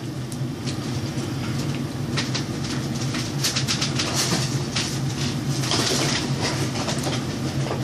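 Crinkly rustling and clicking of a cardboard and paper fast-food box being handled, densest in the middle few seconds, over a steady low hum.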